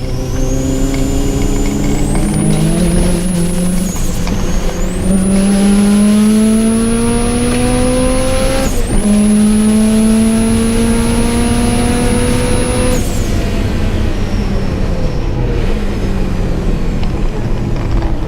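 Subaru Impreza GC8's flat-four boxer engine under hard acceleration, heard close from the engine bay. The revs climb, drop sharply at gear changes about four and nine seconds in, climb again, and fall away when the driver lifts off about thirteen seconds in.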